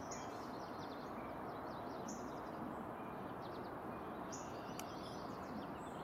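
Birds calling: a few short high calls roughly every two seconds, with fainter twittering between, over a steady hiss of outdoor background noise.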